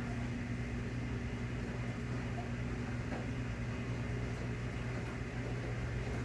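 Maytag washing machine running with a steady, low motor hum.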